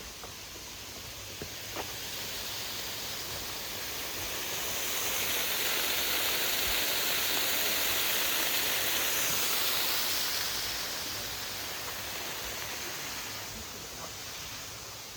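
Waterfall rushing, swelling a few seconds in, holding steady, then fading away again, with a few faint clicks near the start.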